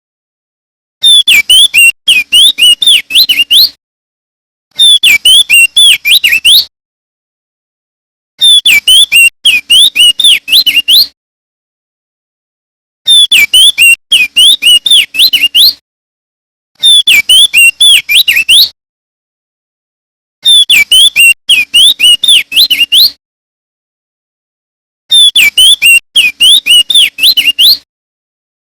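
Male opior jambul singing in seven loud bursts of rapid, chirpy whistled notes that sweep up and down, each phrase two to three seconds long with short silent pauses between.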